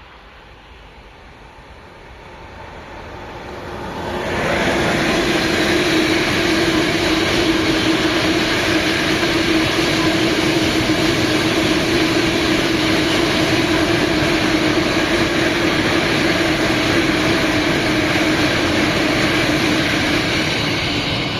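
Train passing close by on the track: it builds over the first four seconds or so as it approaches, then holds as a loud, steady rolling noise of wheels on rail with a few steady tones in it.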